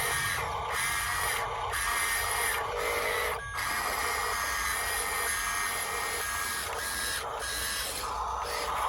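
Electric motor and gearbox of an RC dump truck whining steadily under throttle, with several brief drops as the throttle is let off and taken up again.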